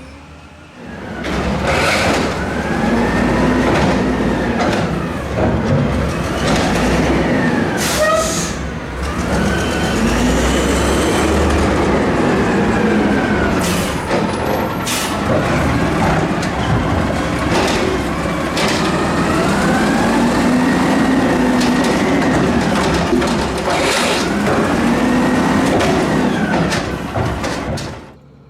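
Emergency vehicle siren wailing, its pitch slowly rising and falling every few seconds, over a heavy engine rumble. It starts about a second in and cuts off near the end, with a few short sharp noises along the way.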